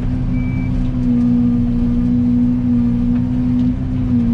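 Yanmar ViO80 mini excavator's diesel engine running steadily while the machine backs up, its travel alarm giving one last short beep about half a second in.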